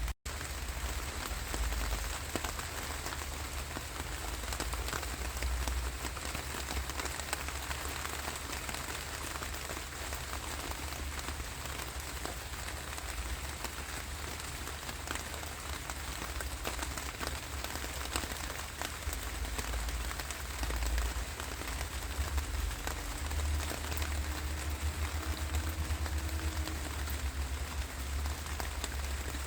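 Steady rain falling, an even hiss of drops with a deep low rumble underneath. The sound cuts out for a split second just after the start, then carries on unchanged.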